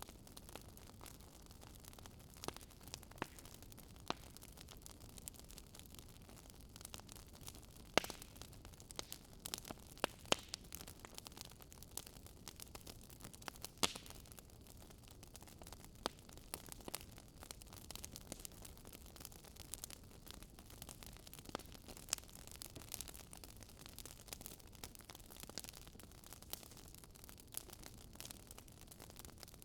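Wood fire burning in a fireplace, crackling with irregular sharp pops and snaps over a faint low hiss; a few pops stand out louder than the rest.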